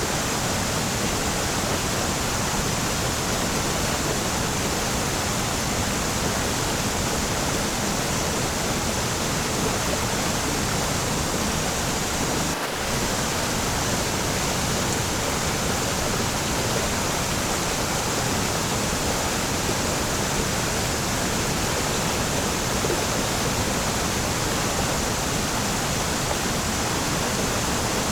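Waterfall: a steady, even rush of falling water spread across all pitches, with a brief dip about halfway through.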